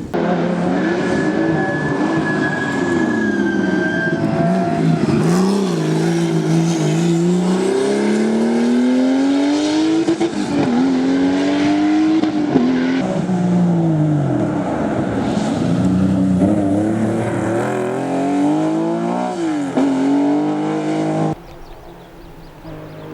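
Race car engine accelerating hard up through the gears, revs climbing and then dropping back at each shift, several times over. It drops away suddenly near the end.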